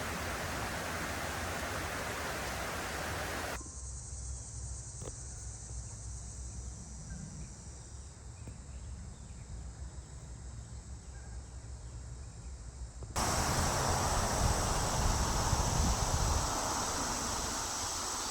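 Outdoor nature ambience: a steady rushing hiss with a faint, steady high insect drone. The sound changes abruptly twice, about three and a half seconds in and again near thirteen seconds, dropping to a quieter low rumble in between.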